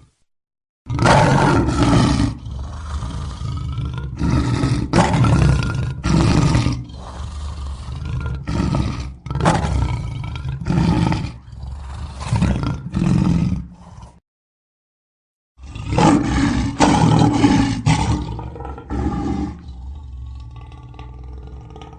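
A lion roaring: a bout of deep, loud roars that grow shorter and more grunt-like, breaking off abruptly about 14 seconds in, then a second bout starting a second and a half later that trails away near the end.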